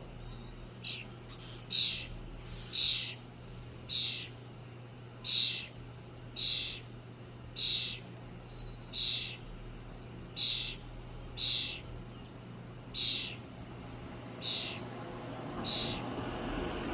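Robin calling over and over, a short sharp call about once a second, each one dropping quickly in pitch.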